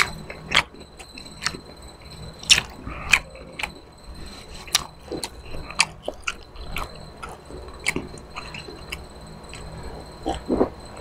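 Close-miked chewing with irregular wet smacks and clicks of the lips and tongue. Near the end, gulps of water drunk from a glass.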